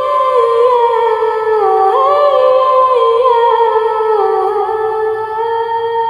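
A high voice singing a long wordless melismatic line, holding notes and stepping and sliding between them, with little accompaniment.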